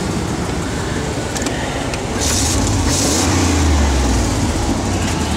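A 1994 Chevy K1500's 350 small-block V8 running, fitted with headers. About two seconds in it gets louder, with a deeper rumble and a brief hiss.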